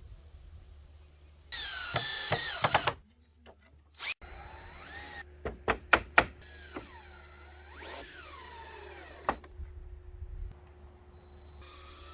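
Power drill running in short bursts, its whine rising and falling in pitch as the trigger is worked, broken by several sharp knocks and sudden stops.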